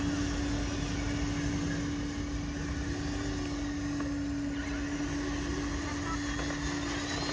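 A small RC truck motor whines at one steady pitch, over a low rumbling noise.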